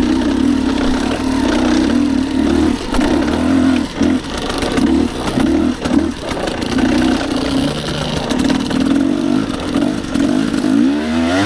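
Dirt bike engine pulling up a slow, slippery climb, the throttle opened and eased in uneven bursts, with a rising rev near the end.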